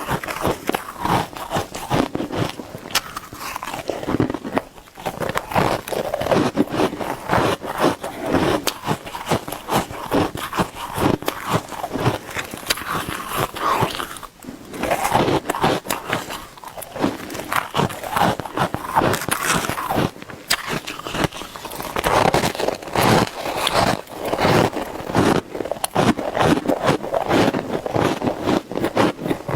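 Shaved ice being bitten and chewed fast, in a dense run of crunching with brief pauses about four and a half and fourteen seconds in.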